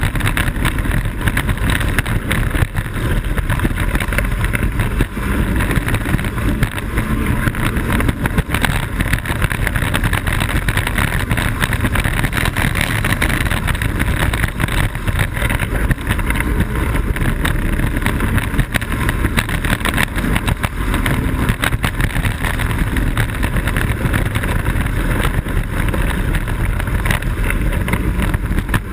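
Blokart land yacht sailing at speed: steady loud wind rush on the microphone over the rumble and rattle of its wheels rolling on the airfield surface.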